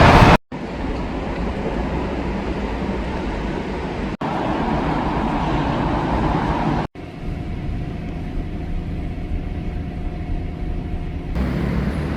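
Steady low rumble of a moving vehicle, heard in several short clips cut together, with a faint steady hum in one of them.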